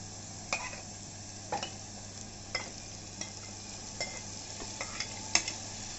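Green masala paste sizzling in oil in a metal pot, with a spoon clicking and scraping against the pot about once a second as the paste is stirred and cooked urad dal is spooned in.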